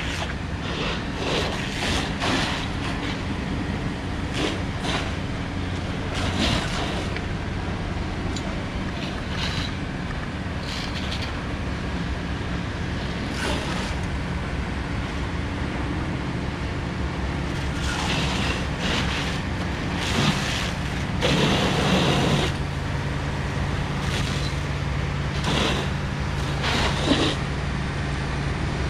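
Steady low drone of engines running at a firefighting scene, with intermittent rushing, hissing noises over it, the loudest about twenty seconds in.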